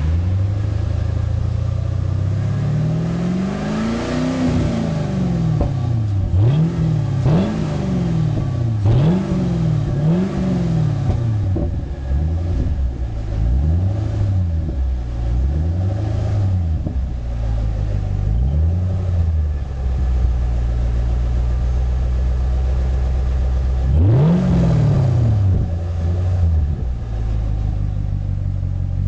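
Supercharged 6.2-litre V8 of a 2010 Chevrolet Camaro SS, breathing through a new Flowmaster American Thunder cat-back exhaust with 40 Series mufflers, idling and being blipped: about ten short revs that rise and fall back in the first twenty seconds, a few seconds of steady idle, then one more rev near the end.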